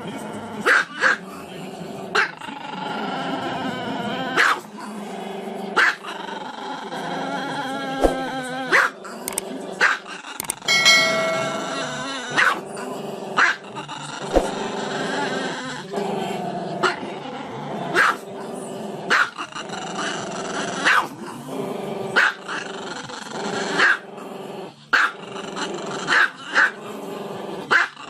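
Small Chihuahua barking in short, sharp yaps about once a second, with a steady wavering vocal from the dog between the barks.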